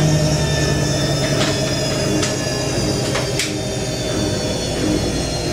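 IKEA RENLIG IWM60 washing machine spinning, a steady motor hum and whine with a few brief clicks. The motor bearings have some roughness, which the owner expects to settle in over time.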